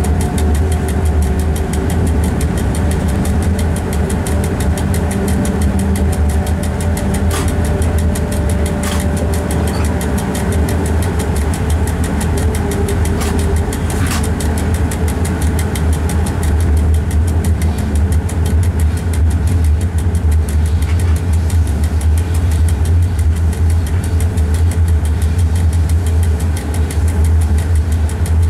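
Steady low drone and rumble of a moving train heard inside its driver's cab, with a few sharp clicks from the running gear over the track. A steady hum fades out in the first half.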